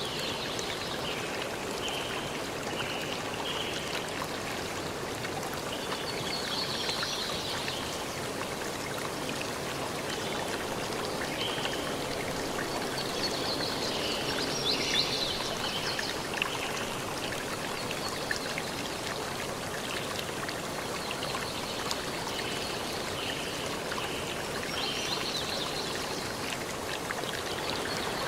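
Forest stream running steadily, with birds chirping now and then over the flowing water.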